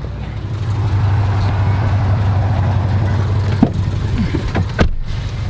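A car driving along: a steady low engine and road drone, with a couple of sharp knocks about three and a half and five seconds in.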